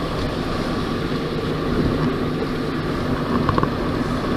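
Car driving on the road, heard from inside the cabin: a steady low rumble of tyres and engine.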